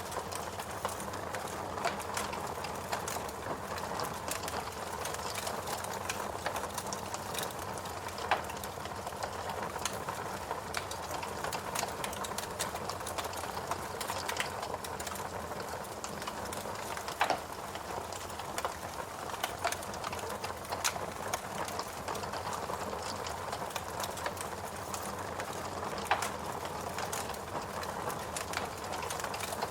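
Fireplace crackling: a steady hiss with sharp pops and snaps scattered every few seconds.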